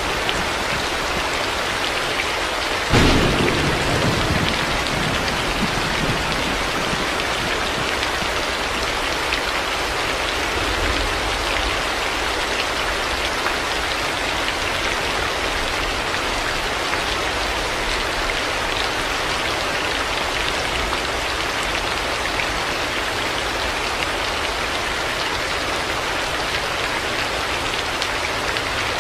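Steady heavy rain falling. About three seconds in there is a sudden clap of thunder, which rumbles away over the next couple of seconds.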